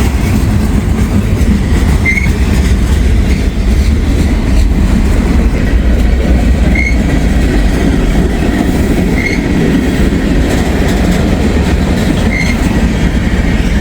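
Freight train cars rolling past at speed: a steady, loud rumble of steel wheels on rail, with a few short high squeaks a few seconds apart.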